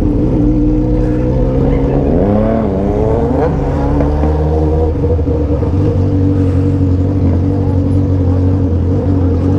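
Motorcycle engines running loud through 3-inch aftermarket exhausts while riding in a group. About two seconds in, one engine revs up in a rising, wavering pitch, then settles back into a steady drone.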